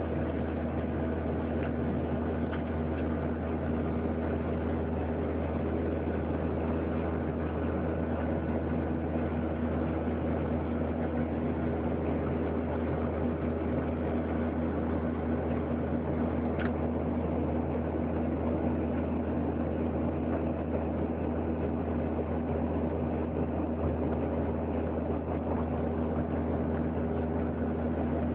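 Cabin noise inside a Boeing 737-800: the steady drone of its CFM56-7B jet engines and airflow, with several constant hum tones under it. A faint click sounds about two-thirds of the way through.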